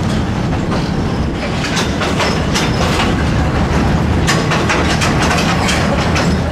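Train carriage running over a riveted steel railway bridge: a steady low rumble with irregular clacks of the wheels on the rails.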